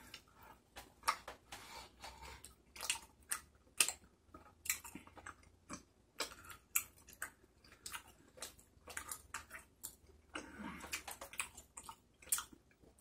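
Close-up chewing of tteokbokki rice cakes in sauce: a string of irregular mouth clicks and smacks, a few a second.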